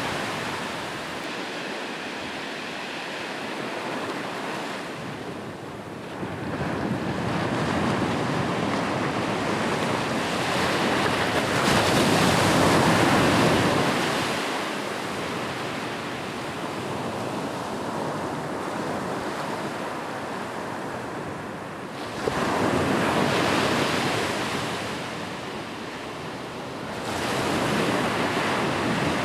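Ocean surf: waves wash in and break in slow swells every several seconds, then draw back. One wave breaks suddenly about two-thirds of the way through.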